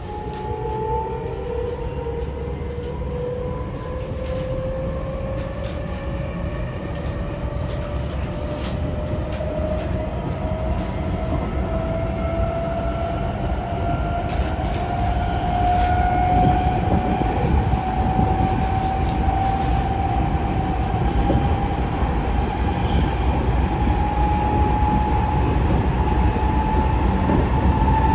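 Tokyo Metro 05 series train's Mitsubishi IGBT-VVVF inverter and traction motors whining, the pitch rising slowly and steadily as the train accelerates. Under it is a steady rumble of the running gear, with scattered clicks of wheels over rail joints.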